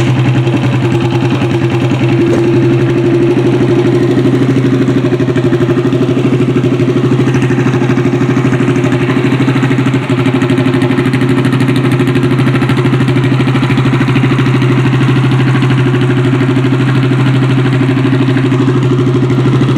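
Small engine idling steadily through a header pipe with no muffler, a deep unmuffled growl, with a brief dip about ten seconds in. It has only just been started and is still cold.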